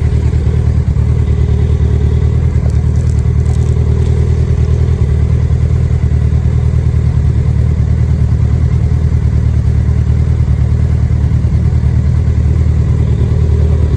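Kawasaki ZX-10R's inline-four engine on its stock exhaust running at a steady, unchanging note.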